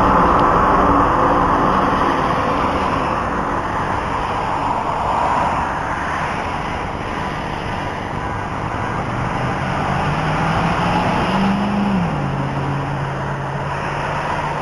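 Steady outdoor noise like road traffic, with a low droning hum beneath it that drops in pitch about twelve seconds in: the kind of sound passed around as a strange 'trumpet sound' from the sky.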